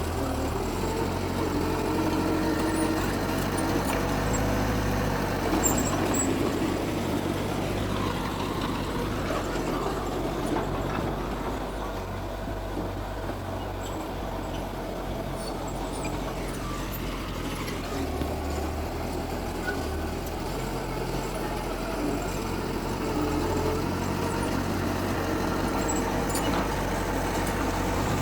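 Diesel engine of heavy earthmoving machinery running steadily with a low drone, easing slightly in the middle and picking up again.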